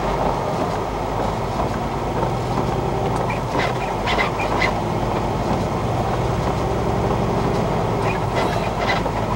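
Big-rig truck's diesel engine and tyres droning steadily inside the cab while driving on a snow-packed road, with a few faint ticks around the middle and near the end.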